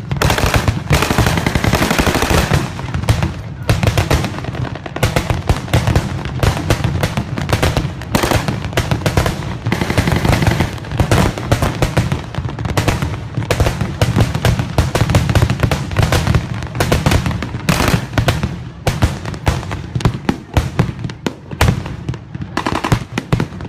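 Sustained rapid gunfire from an anti-aircraft drill: many shots a second overlapping into a continuous crackle, without a pause.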